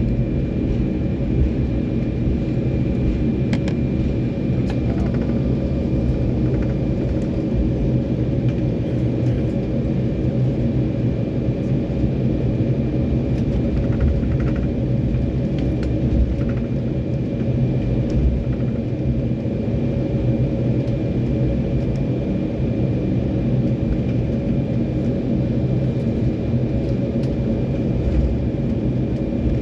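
Cabin noise inside an Embraer E190 airliner with its General Electric CF34 turbofan engines running: a steady loud low rumble with a thin steady high tone above it.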